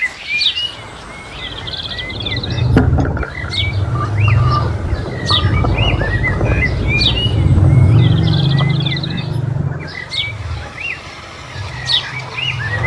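Small birds chirping repeatedly over a low rumble that comes in a couple of seconds in and is the loudest sound.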